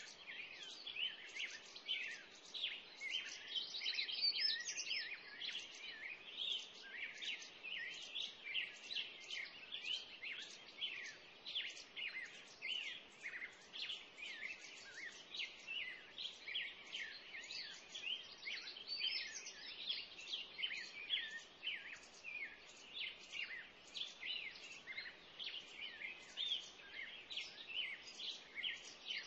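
Birds chirping: an unbroken stream of short, high calls, several a second, over faint background noise.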